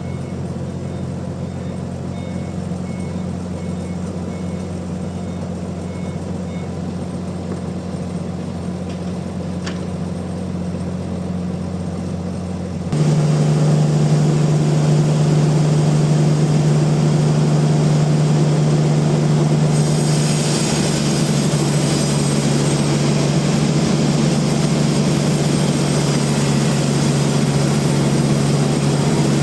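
Band sawmill machinery running with a steady engine hum. About 13 seconds in it changes abruptly to a louder, higher hum, and a hiss joins from about 20 seconds in.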